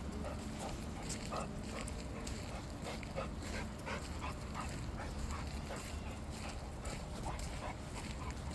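Boxer dog whining in a string of short whimpers.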